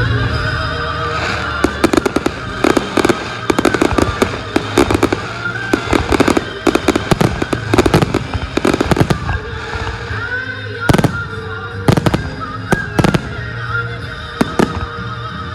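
Fireworks bursting and crackling in rapid, irregular volleys, heaviest in the middle and thinning toward the end, over background music.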